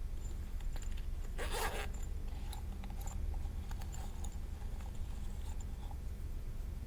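Hands working slime or its ingredients: a short rasping scrape about one and a half seconds in, then scattered light clicks and small sticky pops. A low steady hum runs underneath.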